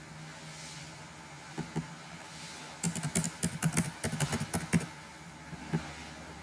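Typing on a computer keyboard: a quick burst of keystrokes for about two seconds, starting roughly three seconds in, with a few single clicks before and after, over a steady low hum.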